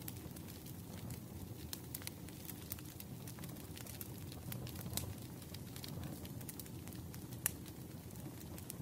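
Wood fire crackling in a fireplace: a steady low rumble with irregular sharp pops and ticks, one louder pop near the end.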